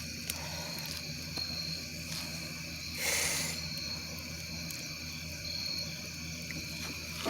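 Steady high-pitched chorus of night insects, with a few faint campfire crackles and a brief whoosh of air about three seconds in.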